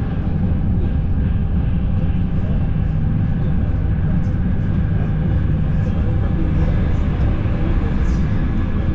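Cabin noise of a Frecciarossa ETR 500 high-speed train running along the line, heard from inside a passenger coach: a steady low rumble.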